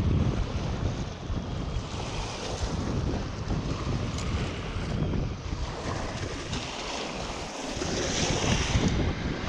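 Wind buffeting the microphone: a gusty low rumble over a steady rushing hiss.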